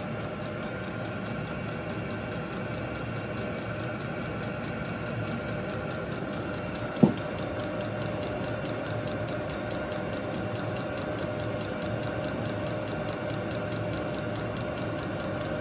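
VEVOR 8 kW diesel air heater running steadily on test, its blower and burner making an even hum with a steady whine. A single sharp click about seven seconds in.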